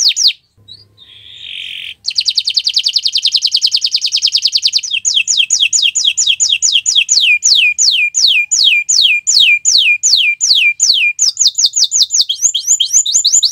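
Domestic canary singing loudly: fast rolling trills, then a run of separate downward-sliding whistles at about three a second, quickening again into rapid trills near the end. The song breaks off briefly about half a second in.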